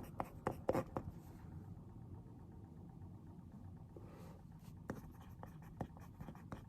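Pen writing on paper in short quick strokes, pausing for a few seconds midway, over a low steady room hum.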